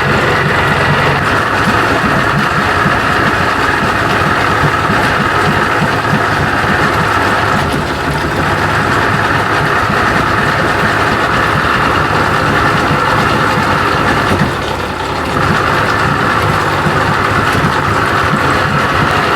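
1992 Johnson 60 hp two-stroke outboard running at idle, steady but missing every once in a while, with brief drops about 8 seconds in and around 15 seconds in. The owner blames the miss on timing he has disturbed and still needs to adjust.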